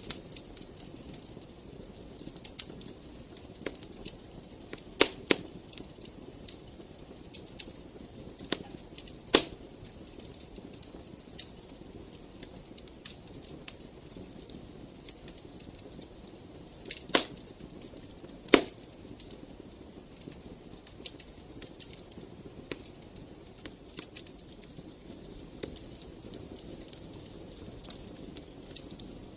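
Wood fire in a fireplace crackling, with irregular sharp snaps and a few louder pops over a soft steady hiss.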